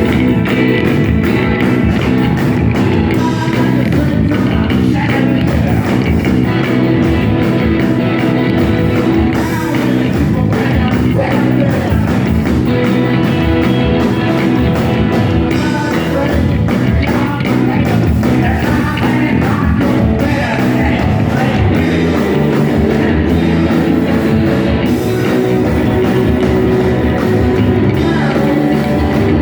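Rock band playing live, loud and continuous, with electric guitar and drums.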